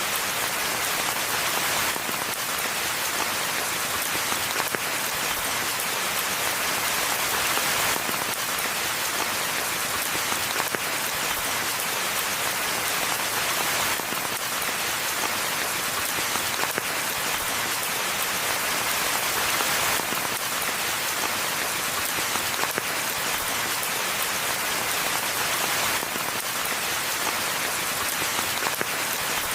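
Steady rainfall: a dense, even hiss of many drops, with no single drop or thunderclap standing out.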